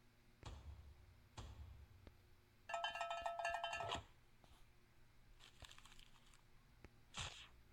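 A short electronic tone pattern, like a phone ringtone or notification chime, lasting a little over a second near the middle, with a few soft thumps before and after it.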